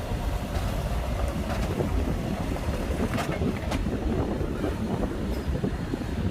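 Shantui bulldozer at work: a heavy diesel engine running with a dense, uneven rumble and the clatter of steel tracks, with two sharp clanks about three seconds in.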